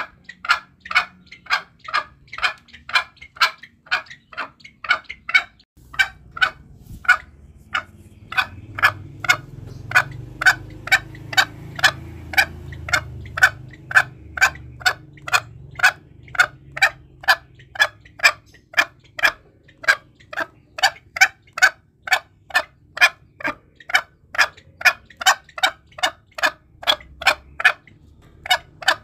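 Green junglefowl calling: a long, even run of short, sharp notes, about two a second. A faint low background rumble comes in about six seconds in.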